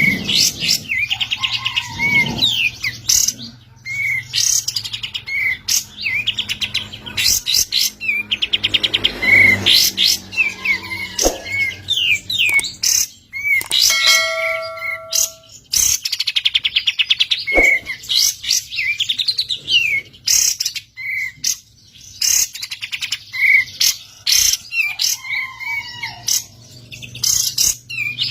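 Kapas tembak bulbul singing in rapid chattering runs: fast trilled phrases and sharp chirps repeated over and over with only short breaks, the full 'ngebren' song that keepers use to train other birds.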